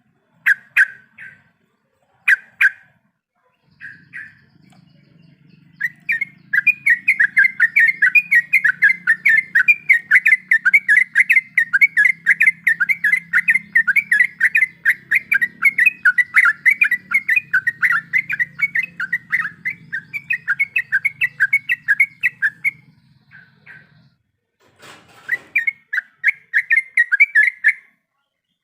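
Yellow-vented bulbul (trucuk) singing. A few short notes come first, then a long, fast, rolling run of repeated chirps that lasts about seventeen seconds. It breaks off and starts again briefly near the end.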